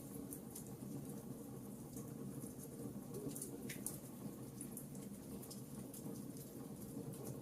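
Fire in a fireplace crackling: irregular small pops and snaps over a steady low rumble, with one sharper, longer pop a little past halfway.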